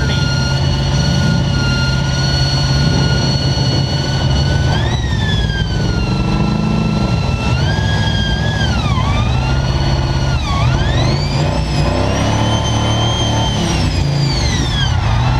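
Demolition derby cars' engines running hard under a steady low rumble, with a high whine that holds level at first, then rises and dips sharply several times as a car speeds up and slows.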